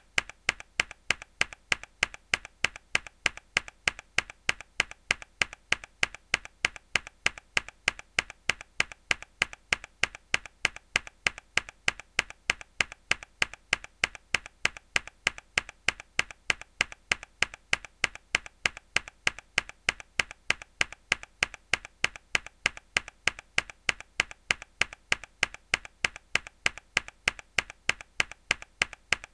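A mechanical keyboard key struck hard, over and over, giving sharp, evenly spaced clicks at about three a second.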